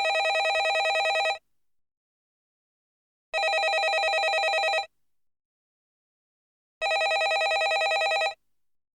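Landline telephone bell ringing: three rings of about one and a half seconds each, with a rapid trill in each ring, separated by pauses of about two seconds.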